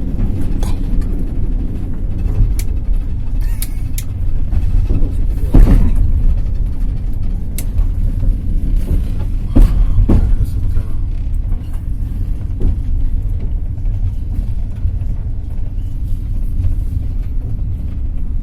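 Passenger train running: a steady low rumble of wheels on rails, with scattered, irregular clacks and knocks from the wheels and carriage.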